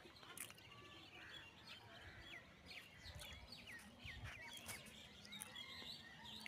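Faint bird chirps: short calls that sweep down in pitch, repeating over and over.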